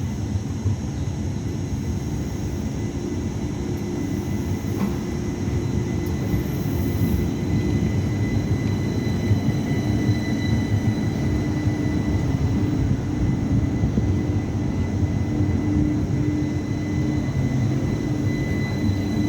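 City tram running into a stop: a steady low rumble with a thin, steady high whine above it.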